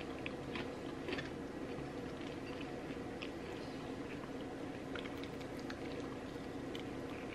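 Close-miked chewing and small wet mouth clicks of someone eating, over a steady low background hum.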